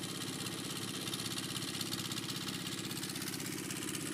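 An engine running steadily at idle, with a fast, even pulsing.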